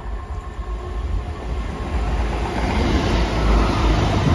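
ScotRail Class 170 Turbostar diesel multiple unit passing through without stopping, its diesel engines and wheels on the rails growing steadily louder as it comes alongside.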